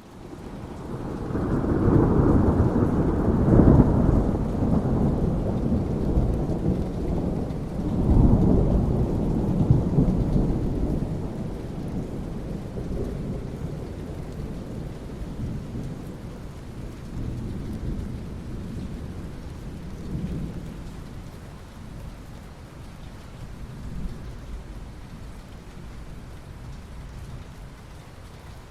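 Thunder rolling over steady rain: a deep rumble builds in the first seconds, swells again about eight seconds in, then dies away, leaving rain falling steadily for the rest.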